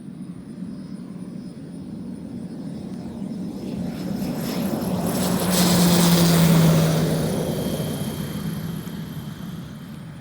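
Beechcraft T-34A with a five-bladed Rolls-Royce M250 turboprop flying past. Its sound swells to a peak about six seconds in, drops in pitch as it passes, and then fades away.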